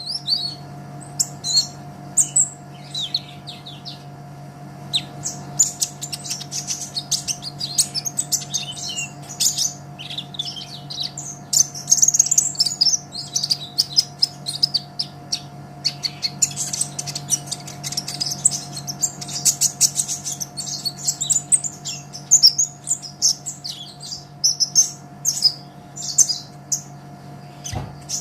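A kolibri ninja (brown-throated sunbird) singing a rapid, high-pitched twittering song of dense chirps and trills in long bursts, over a steady low hum.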